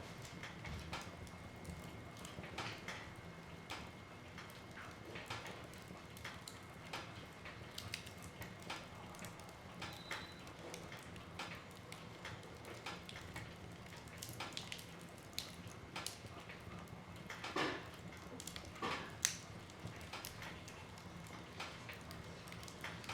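Wood fire burning in a fireplace: a soft steady hiss with irregular crackles and pops of burning wood, and a few louder cracks about seventeen and nineteen seconds in.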